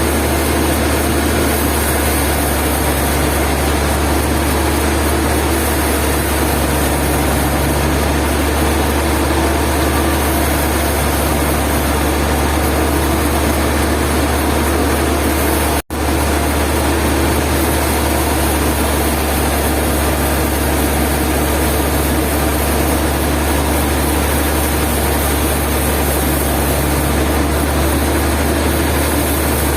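Sawmill machinery running steadily: a loud, even engine drone with a hiss over it. It cuts out for an instant about halfway through, then carries on unchanged.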